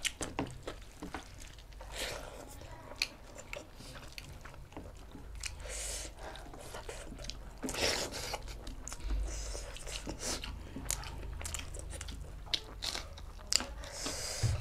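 Close-miked chewing and biting of food: mouth sounds with many short sharp clicks and crunchy bites scattered through, as in a mukbang eating recording.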